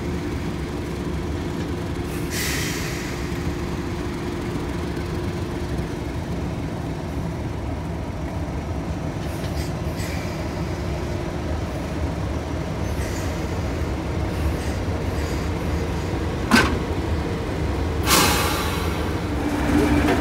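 Heritage railway train running along the line, a steady rumble of wheels on track. There is one sharp knock about three-quarters of the way through and a brief hiss near the end.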